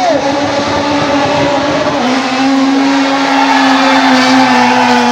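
A performance car's engine held at steady revs, its pitch dipping slightly about two seconds in and then holding level.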